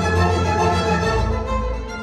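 Recorded music with violin and bowed strings over a bass line, played back through a high-end hi-fi loudspeaker system.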